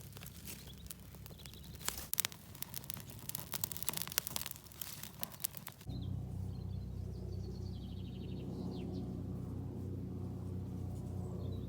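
Irregular crackling and snapping clicks, like dry leaves and twigs underfoot or in the hands. About halfway through the sound changes abruptly to a steady low hum with a few birds chirping over it.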